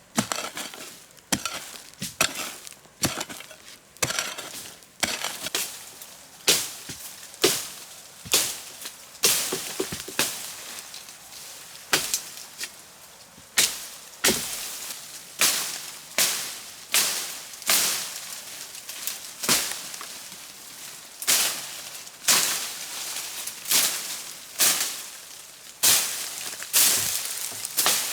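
Hoe blade striking and scraping into earth, level with the next one about once a second in a steady rhythm, as ground is dug and levelled.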